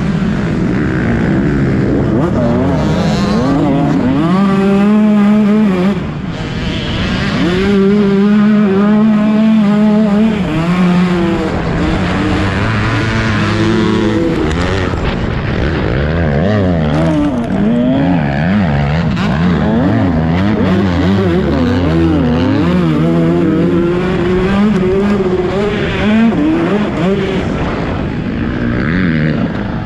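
Motocross bike engines revving hard, their pitch rising and falling again and again as the throttle opens and closes and the gears change.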